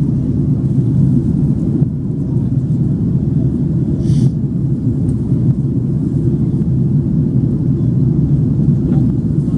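Steady low rumble of an Airbus A330-300 airliner's engines and airflow heard from inside the passenger cabin in flight. A brief faint hiss about four seconds in.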